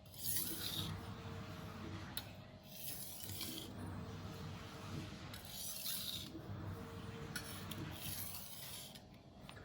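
Steel chef knife blade drawn edge-trailing across a Naniwa 1000-grit water stone in about half a dozen separate scraping strokes, roughly one every second or so: deburring strokes that flip the burr back and forth to weaken it.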